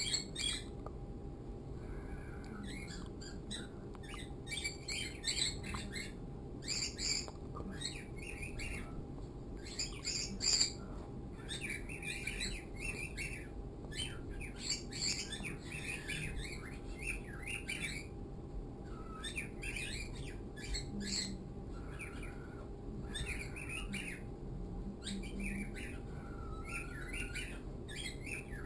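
Caged pet birds chirping and squawking in repeated short bursts, with a brief lull about two-thirds of the way through.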